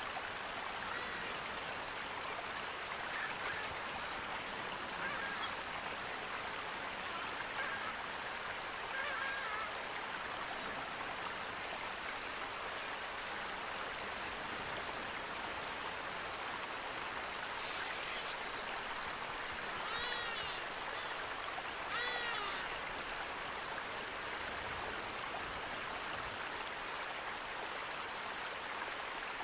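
Steady rushing of a stream or waterfall, with scattered bird calls over it; two louder, honk-like calls stand out about two-thirds of the way through.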